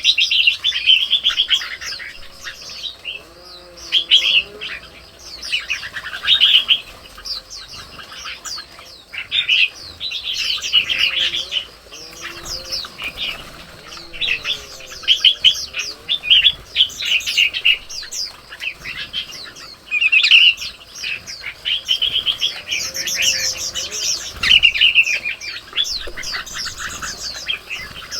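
Many birds chirping and calling, a dense run of quick overlapping chirps with short pauses.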